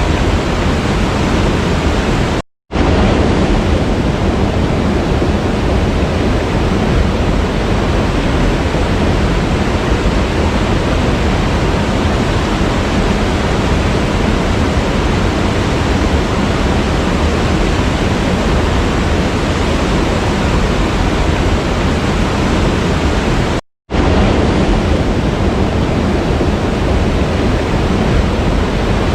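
Waterfall rushing in a steady, dense roar of falling water. It breaks off twice in a split-second gap of silence, about two and a half seconds in and again near the end.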